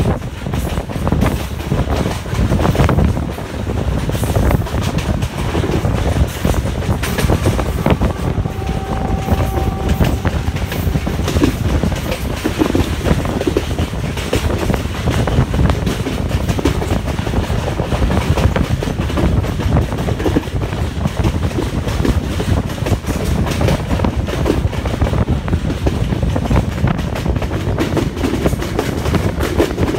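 Sri Lanka Railways Uttara Devi intercity express running at speed: a steady rumble with the wheels clattering over rail joints, heard through an open doorway.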